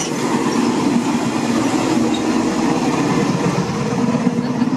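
Steady running rumble of a passenger train, heard from inside the sleeper carriage.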